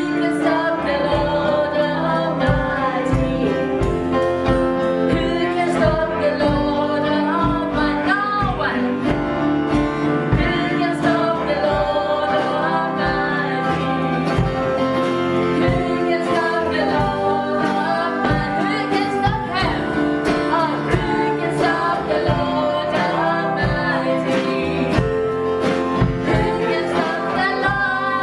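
Worship song: several voices singing together over instrumental accompaniment with a steady beat.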